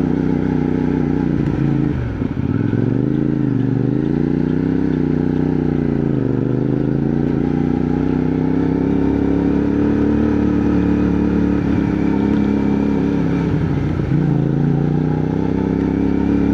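CFMoto 450NK parallel-twin engine running under way, its pitch dropping as the revs fall about 2 s, 6 s and 14 s in and climbing again between.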